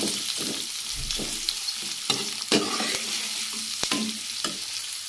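Sliced onions frying in hot oil in a kadai, a steady sizzle, with a steel ladle scraping and knocking against the pan as they are stirred to brown.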